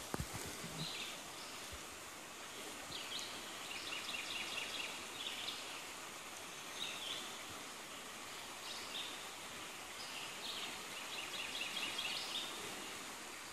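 A songbird singing a phrase of quick, evenly repeated high notes, twice, about eight seconds apart, with other short bird chirps between. Under it runs a steady outdoor background hiss. A few soft low thumps come in the first two seconds.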